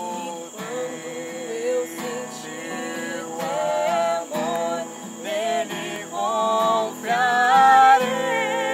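Singing voices carrying a melody over guitar accompaniment.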